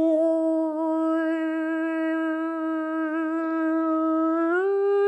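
A single human voice toning one long, steady note, as in light-language sound healing. It slides up a little in pitch near the end.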